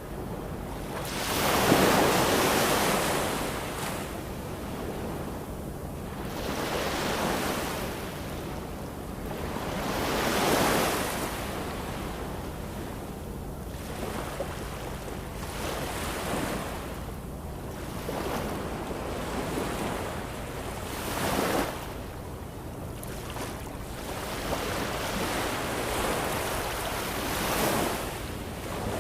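Ocean waves breaking and washing on a shore, a rush that swells and falls back every few seconds, with a steady low sea rumble beneath.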